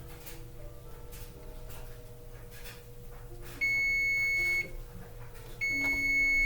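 Electronic oven timer beeping twice, each a long steady high beep of about a second, signalling that the set cooking time has run out.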